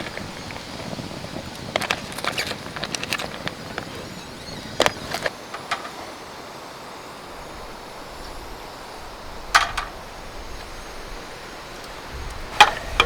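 Scattered sharp clicks and knocks over a steady hiss: a quick cluster about two seconds in, a few more near the middle, and single louder ones later on and near the end.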